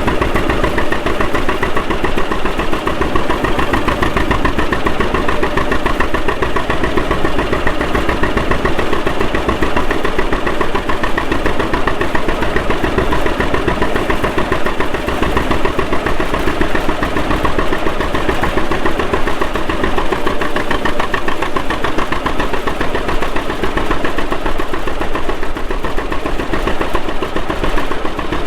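Antique farm tractor engine running steadily and loudly close by, with a fast, even firing beat.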